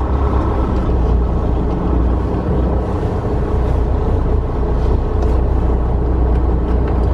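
Semi truck's diesel engine running steadily at low speed while the truck is manoeuvred to park.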